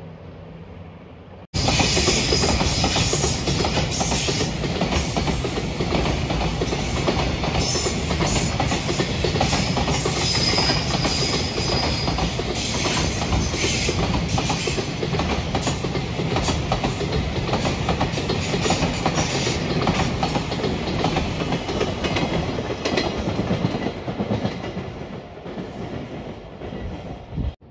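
Container freight train passing close by, its wagon wheels clattering over the rail joints in a steady clickety-clack. It begins abruptly about a second and a half in, eases slightly near the end and stops suddenly.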